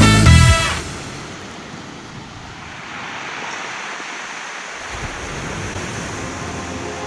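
Music cuts off under a second in, leaving a steady rushing of sea surf.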